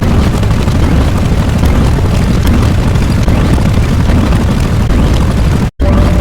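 A loud, continuous low rumble, like a sustained explosion or eruption sound effect, that drops out completely for a split second near the end and then resumes.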